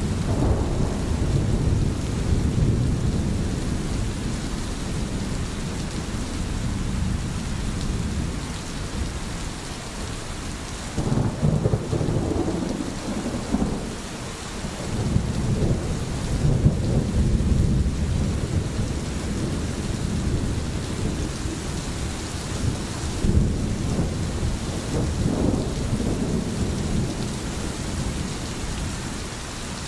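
Steady rain, with low rolling rumbles of thunder that swell and fade several times.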